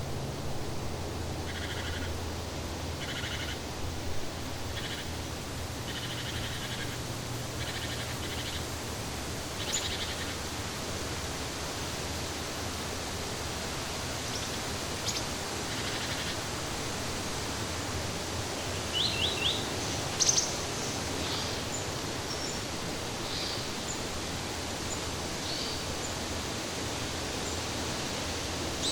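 Tropical forest ambience: a steady hiss of background noise with scattered short bird calls and chirps, including a quick run of chirps about two-thirds of the way through.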